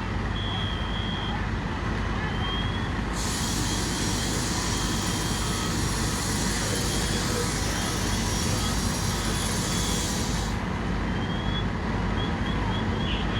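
Steady low rumble of running truck engines, with a loud hiss that starts suddenly about three seconds in and cuts off about seven seconds later, and short high chirps now and then.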